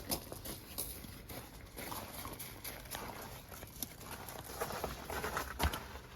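Footsteps, a slow run of soft, uneven steps, with one sharp knock near the end.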